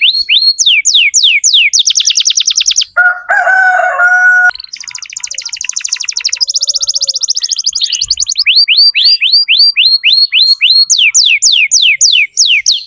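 Domestic canary in full song: loud runs of fast downward-sweeping whistled notes and rapid trills, broken about three seconds in by a short lower-pitched, steadier passage. The song stops right at the end.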